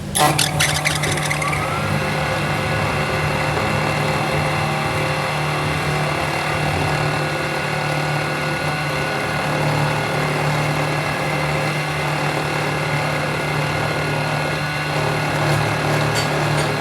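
A machine starts with a brief clatter, a whine rising as it spins up, then runs steadily with a hum and whine.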